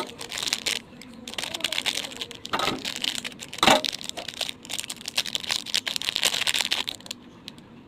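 Plastic wrapper of a Yupi gummy candy pack crinkling and rustling in the hands as it is opened, a dense run of irregular crackles that fades near the end.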